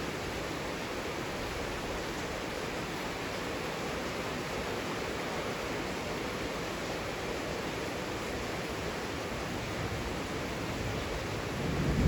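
Heavy rain falling in a steady, even hiss. A low rumble swells up near the end.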